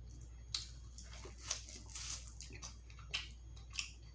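Close-miked chewing of food: a string of short, irregularly spaced wet mouth clicks and smacks.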